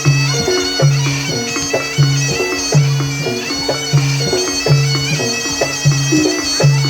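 Kuda lumping ensemble music: a shrill, reedy wind-instrument melody over drums and a low note that repeats about once a second in a steady rhythm.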